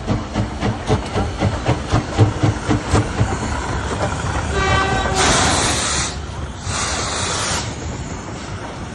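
Steam locomotive running with an even rhythmic beat of about three to four strokes a second. About five seconds in, a short whistle tone sounds, followed by two loud bursts of hissing steam about a second each.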